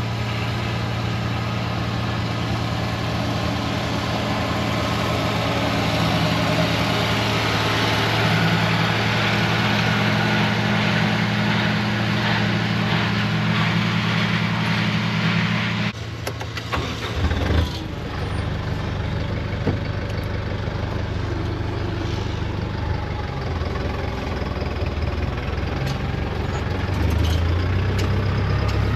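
International tractor engine running steadily under load while pulling a hay mower. A little more than halfway through, the sound changes abruptly to a lower, more uneven engine note.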